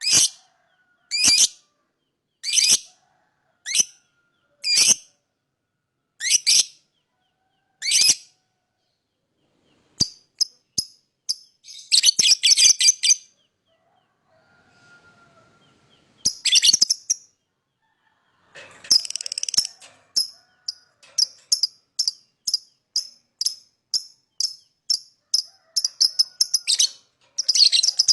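Lovebird chirping: sharp high chirps spaced about a second apart at first, then quicker runs of short chirps broken by a few brief chattering bursts, and near the end a fast string of chirps about three a second.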